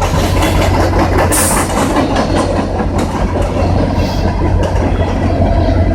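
CN freight train rolling past at speed: a loud, steady rumble of steel wheels on rails, with the clatter of wheels over rail joints.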